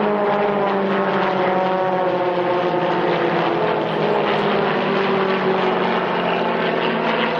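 Aerobatic propeller aircraft with 300-horsepower piston engines flying past, engines and propellers droning steadily while the pitch slides slowly lower.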